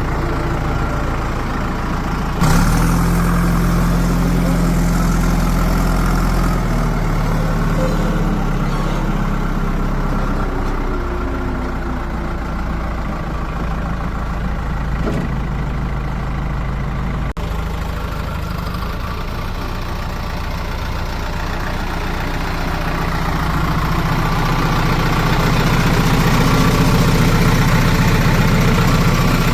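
Heavy diesel engine running steadily, stepping up suddenly in level a couple of seconds in, then swelling louder gradually near the end.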